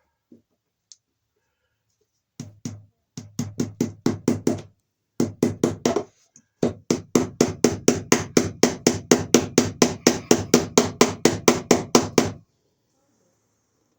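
Hammer tapping a cable staple in over electrical cable: quick, even knocks in a few short runs, then a long steady run of about five strikes a second that stops near the end.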